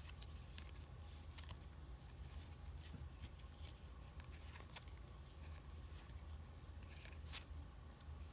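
Baseball trading cards being flipped through by hand: faint slides and flicks of card stock, with a sharper snap about seven seconds in, over a steady low hum.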